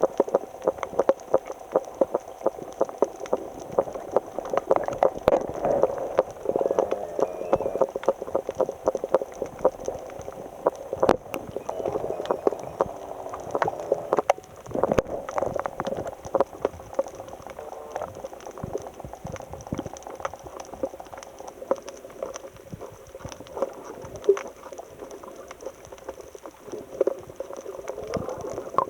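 Seawater sloshing and bubbling close to the microphone, with many sharp clicks scattered through it.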